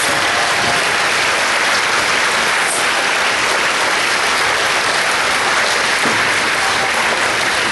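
An audience applauding steadily, with dense clapping and some cheering.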